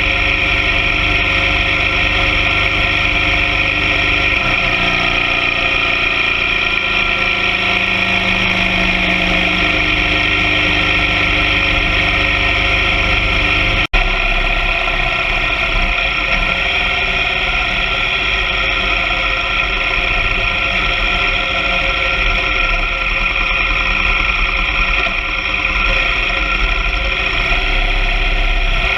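BMW R 1200 GS Adventure sidecar rig's boxer-twin engine running at a steady road speed, with heavy wind noise on the microphone. The engine note shifts slowly in pitch early on, and the sound cuts out for an instant about halfway through.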